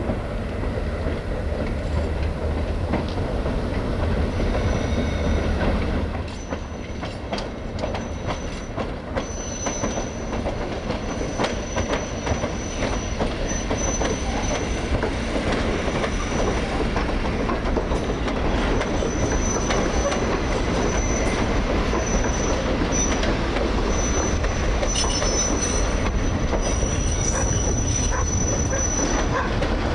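A train rolling along the track, its wheels clicking over the rail joints, with a thin, high wheel squeal coming and going from about six seconds in.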